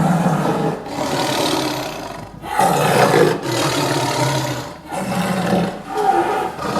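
An animal's long, rough calls, four in a row, each lasting one to two seconds with short breaks between them.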